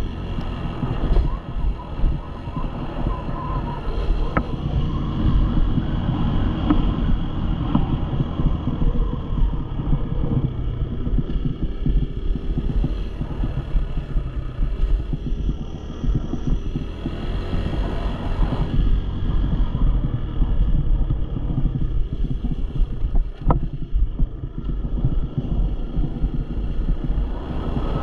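Dirt bike engine running steadily, with wind buffeting the microphone.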